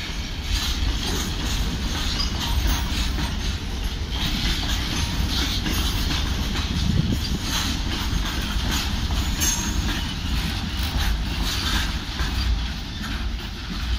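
Covered goods wagons of a slow-moving freight train rolling past, with a low rumble and steady clatter of wheels over rail joints, mixed with high wheel squeal. The sound eases a little near the end.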